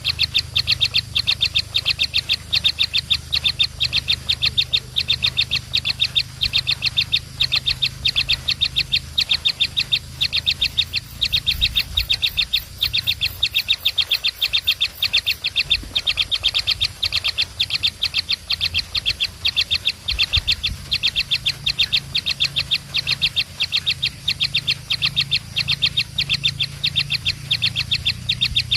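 Baby birds' begging chirps: high, evenly repeated calls, about four a second, keeping up without a break, with a steady low hum underneath.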